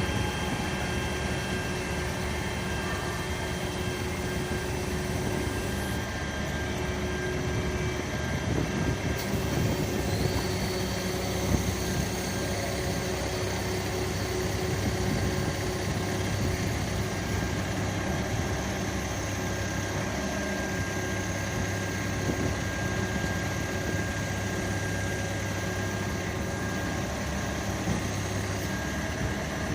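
Fire truck engine idling steadily with a continuous low hum.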